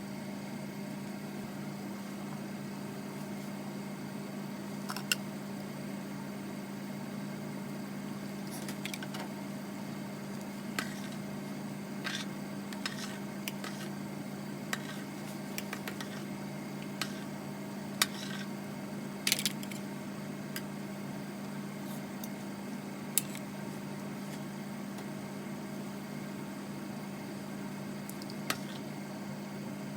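Steady low hum of a running kitchen appliance, with scattered light clicks and knocks of kitchen utensils, about a dozen, irregular and not in a chopping rhythm.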